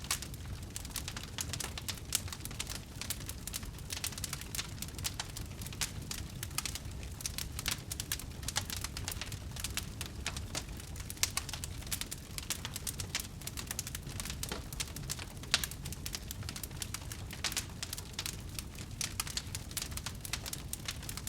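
Wood fire burning, with dense, irregular crackling over a steady low rumble and a few sharper, louder pops, about 2 s in, near the middle and about three-quarters through.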